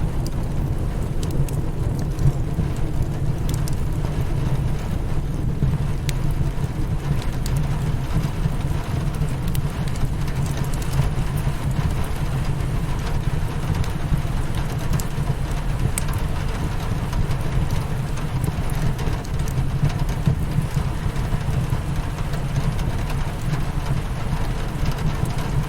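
Steady rain beating against a window pane, mixed with a crackling wood fire that gives scattered sharp pops and snaps over a constant low rumble.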